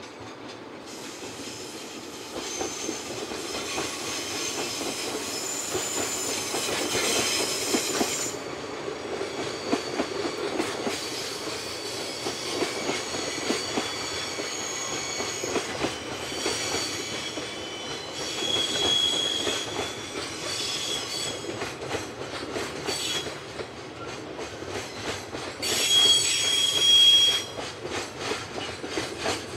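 Freight wagons loaded with containers rolling past on a curve, their steel wheels clattering over the rail joints. High wheel-flange squeals come and go throughout, the loudest about three-quarters of the way through.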